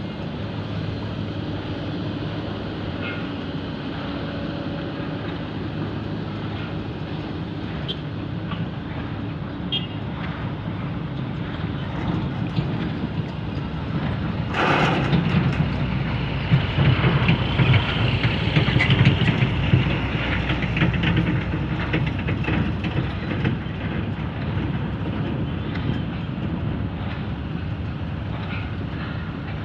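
Diesel engine of heavy construction machinery running steadily while the machines move. About halfway through comes a sudden sharp noise. After it the machinery runs louder for several seconds, with a high whine added, before settling back.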